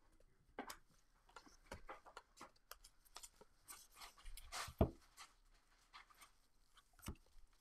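Trading cards being handled and flipped through by hand: a string of faint, irregular clicks and taps, with a louder thump about five seconds in and another near the end.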